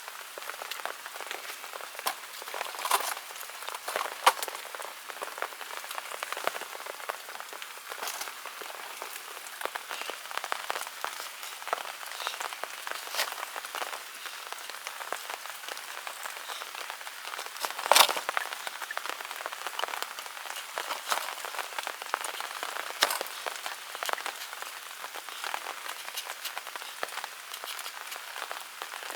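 Steady rain falling, with irregular sharp drop hits over a constant hiss. The loudest hit comes about two-thirds of the way through.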